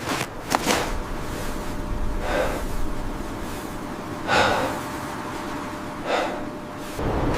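Heavy, loud breaths: four gasping exhalations about two seconds apart, the third the loudest.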